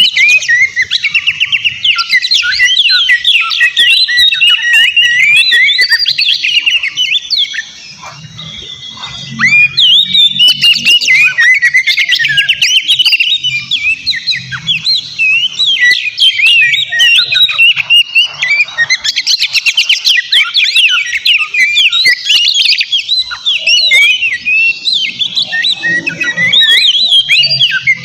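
Oriental magpie-robin singing a loud, fast, varied song of whistles and chirps, with a brief lull about eight seconds in.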